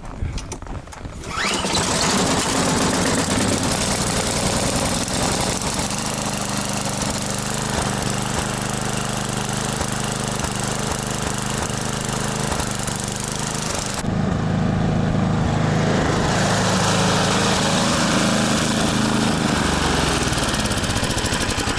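Snowblower's small gasoline engine coming up to speed about a second in, then running steadily under load with a loud rushing hiss while it clears snow from the driveway. The sound changes abruptly about two-thirds of the way through.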